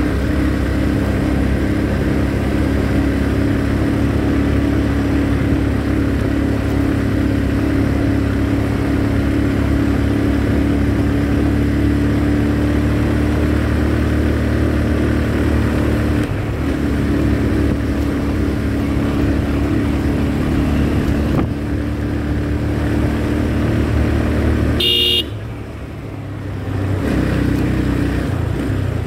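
Motorcycle engine running at a steady speed under way, with road and wind noise. About 25 seconds in, a short horn beep sounds, and the engine then drops off for a couple of seconds before picking up again.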